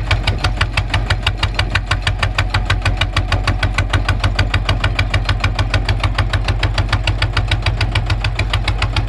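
Kubota ZT 155 tractor's single-cylinder diesel engine running steadily, with an even, rapid diesel knock of about eight beats a second over a low hum.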